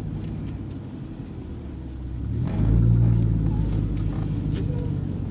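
2007 Ford Mustang GT's V8 engine and exhaust running at low revs, getting clearly louder about two and a half seconds in, then holding steady.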